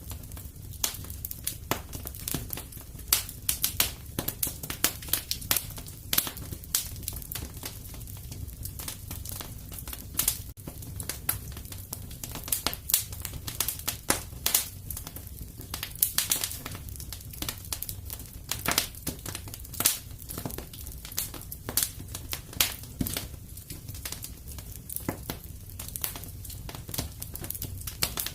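Wood fire crackling in a fireplace: many irregular sharp pops and snaps over a low, steady rumble of the burning fire.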